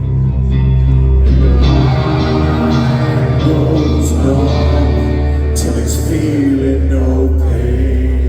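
Live heavy metal band playing loudly through a concert PA: sustained guitar and bass chords over drums, with cymbal crashes about four and five and a half seconds in.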